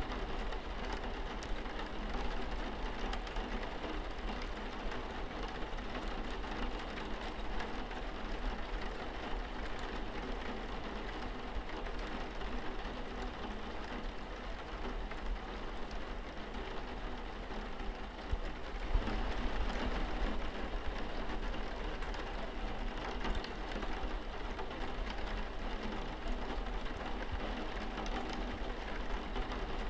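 Steady rain on window glass: an even hiss thick with small drop ticks, with a low hum underneath. The rain grows a little louder about two-thirds of the way through.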